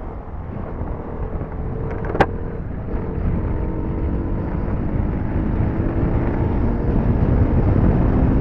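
TVS Apache 310's single-cylinder engine pulling hard under throttle, its note rising steadily in pitch and loudness as the motorcycle accelerates, with wind rush over the microphone. A single sharp click about two seconds in.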